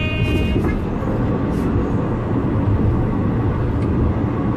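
Alishan Forest Railway train running along the track: a steady, dense low rumble. A held high tone carries over from before and cuts off about half a second in.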